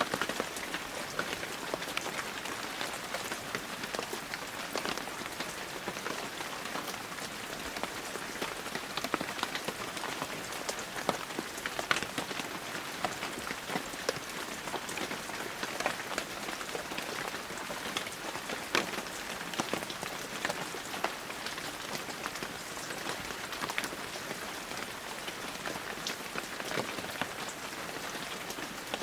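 Heavy rain falling steadily, a dense even hiss dotted with many sharp ticks of individual drops striking close by.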